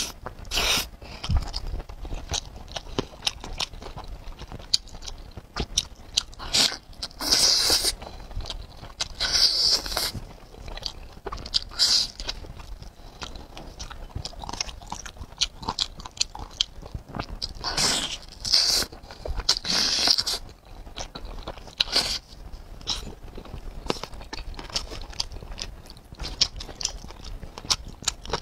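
Close-miked eating: chewing and wet mouth smacking on sauce-coated sausage and black bean noodles, with quick clicks every fraction of a second and several louder, hissy bursts lasting about a second.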